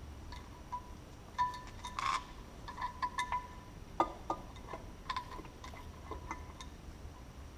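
Irregular light metallic clinks and taps, several with a brief ringing tone, from hand tools and metal engine parts being handled while a motorcycle cylinder head is taken off.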